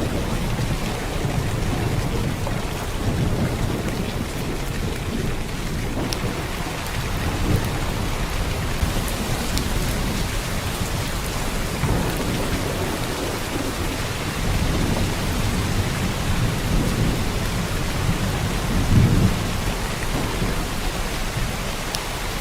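Heavy downpour of rain, a steady hiss, with deeper low rumbling swells several times.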